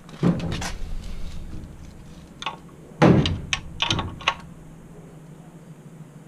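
Hand tools knocking and clicking on the motorcycle's metal chain adjuster and swingarm: a few sharp knocks, then the loudest thud about three seconds in and a quick cluster of clicks right after.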